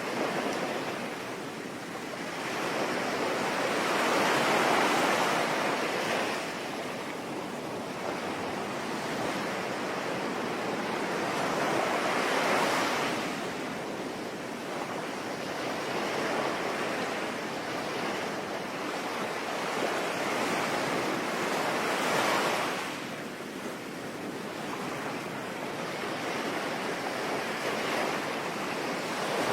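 Sea waves breaking and washing ashore, swelling louder about every eight seconds over a steady hiss of rain.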